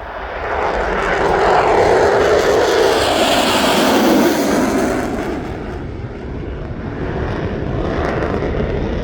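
Jet aircraft passing by: a loud rushing engine noise that swells over the first couple of seconds, peaks, and drops in pitch as it goes past, then settles to a steadier rumble.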